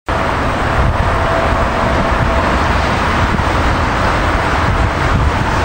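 Steady road traffic noise, a continuous rumble and wash of passing vehicles with no distinct events.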